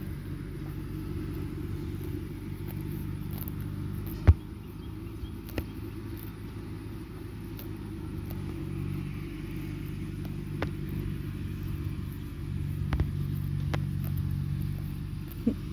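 A motor running steadily with a low hum, with scattered light clicks and one sharp knock about four seconds in.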